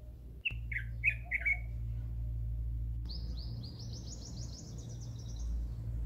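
Birds chirping: four short downward-sliding chirps about half a second in, then from about three seconds a fast run of rising high-pitched notes, over a steady low hum.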